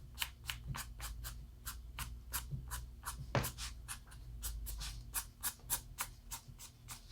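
Ohuhu alcohol marker tip flicked across paper in quick short strokes, about five a second, one dry scratch each. These are repeated flicking strokes used to shade hair.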